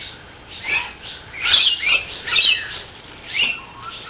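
Noisy miners giving harsh, scolding calls, about five in quick succession.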